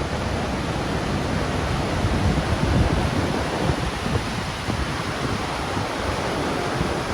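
Steady rushing noise of wind buffeting the microphone over the low rumble of a narrow-gauge train running.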